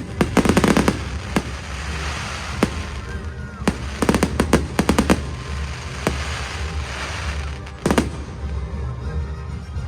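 Fireworks display: volleys of sharp bangs in quick succession, the densest clusters near the start and about four seconds in, with a single loud bang near the eight-second mark and a crackling hiss between.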